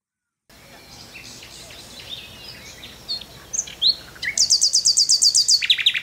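Songbirds chirping over a faint outdoor hiss. About four seconds in, one bird starts a loud, rapid trill of high, sharp notes at roughly ten a second, then drops to a lower string of similar notes near the end.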